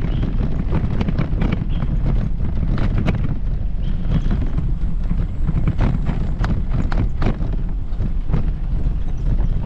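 Footsteps of a person walking at a steady pace, about two steps a second, over a constant low rumble of wind on the microphone.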